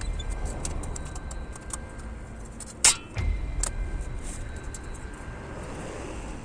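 Hammer blows on a warped steel fire-pit grate to straighten it, with small metallic clicks and clinks, one sharp strike about three seconds in, and the metal ringing afterwards. A steady low rumble runs underneath.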